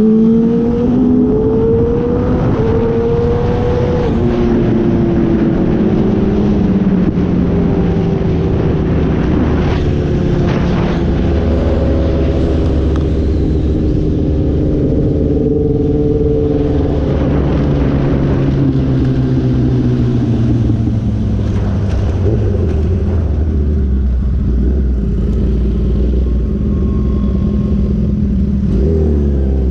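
Sport motorcycle engine accelerating, its pitch climbing in three quick steps as it shifts up through the gears, then falling in a long, slow glide as the bike rolls off and slows.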